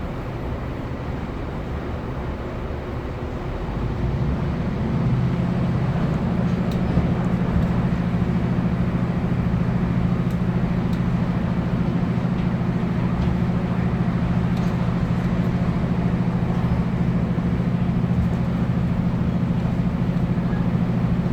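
Class 156 diesel multiple unit's Cummins underfloor diesel engine heard from inside the carriage. About four seconds in, the engine rises in pitch and loudness as power is taken up, then holds a steady drone under load over the running noise of the train.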